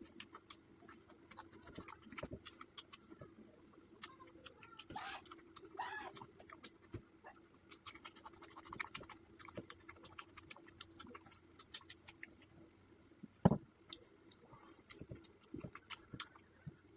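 Quiet eating sounds from a meal of rice and fish curry: small clicks, scrapes and chewing noises, with one sharp knock about thirteen and a half seconds in and a faint steady hum underneath.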